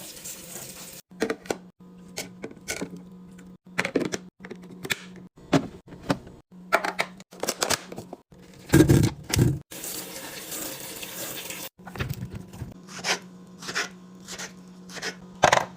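Containers and groceries being handled and set down in a restocking routine: a string of short clicks, taps and knocks, with a heavier thud about nine seconds in. Two stretches of hissing, like liquid pouring or a tap running, come near the start and again past the middle. The sound breaks off abruptly several times.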